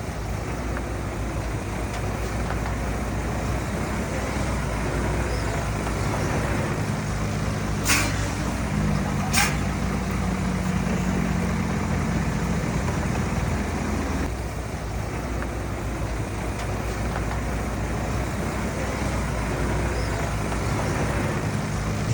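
Heavy diesel earthmoving machinery running steadily, with two sharp metallic knocks about a second and a half apart near the middle.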